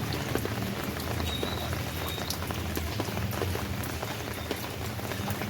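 Rain falling steadily, with many individual drops pattering close by over a constant wash of rainfall. A steady low hum runs underneath.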